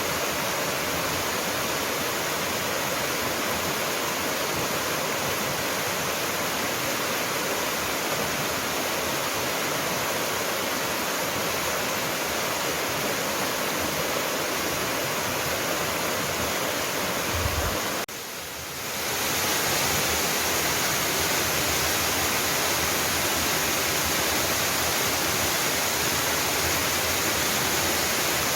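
A waterfall rushing steadily, an even full roar of falling water. About two-thirds of the way through there is a brief low thump and a momentary drop in level, after which the water sound comes back slightly louder and brighter.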